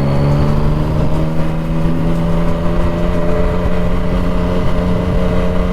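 Sport motorcycle engine running at steady, low revs, its pitch holding nearly even, over a low rumble.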